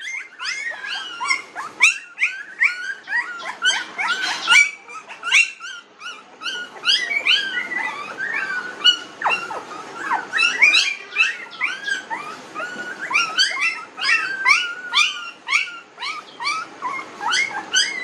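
A litter of young Pomeranian puppies squealing and whimpering: many short, high-pitched cries that overlap, several a second.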